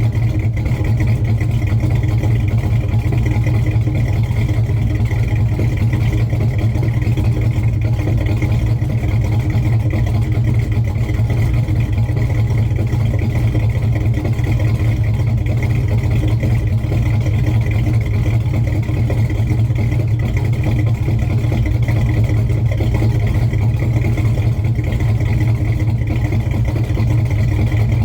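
1970 Chevrolet Chevelle engine idling steadily while it warms up after a cold start, not yet at operating temperature.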